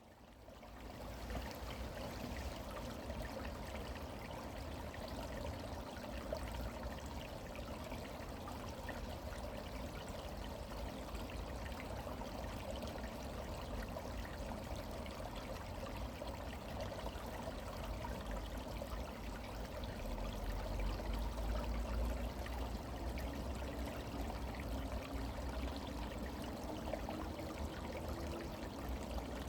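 A small stream flowing, a steady rush and trickle of running water that fades in over the first second or so.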